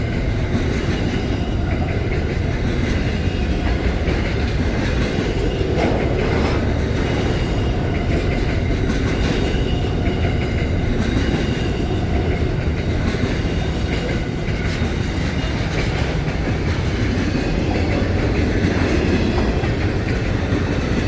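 Container and well wagons of a long interstate freight train rolling past: a steady, unbroken rumble of steel wheels on the rails with a clickety-clack.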